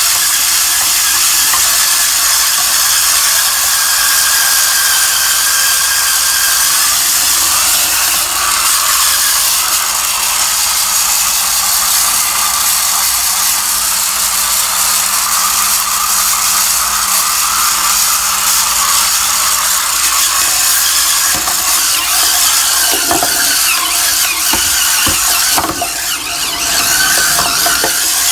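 Cordless Hurricane Spin Scrubber running with its corner brush spinning against a toilet bowl: a steady high motor whine over the hiss of bristles scrubbing the wet surface, with a few knocks near the end.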